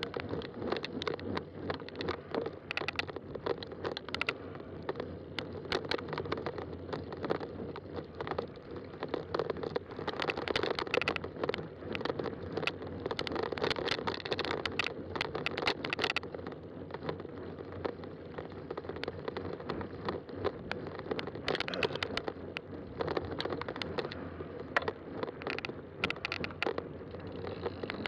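Fat-tire bike rolling along a trail: a steady tyre-and-drivetrain rolling noise with many small irregular crackles and ticks from the trail surface under the wide tyres.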